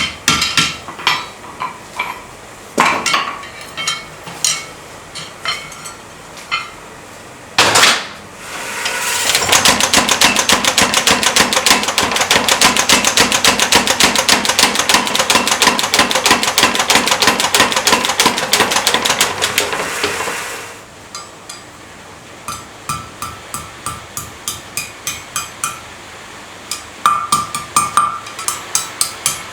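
Steel being forged by hammering: scattered hammer blows on the anvil, then a long stretch of rapid, evenly spaced blows from a power hammer lasting about eleven seconds, then a run of lighter, evenly spaced hammer taps.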